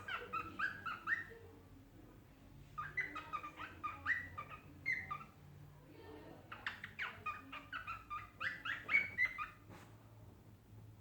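Cockatiel whistling in three bursts of short, quick notes that slide upward in pitch, with brief pauses between the bursts.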